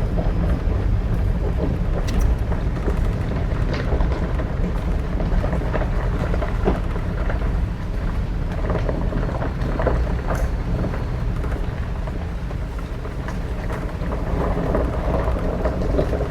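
Steady low rumble of a lift-kitted 2025 Ford Bronco on 37-inch tires driving over a rough dirt road, with scattered ticks and crackles from the road surface.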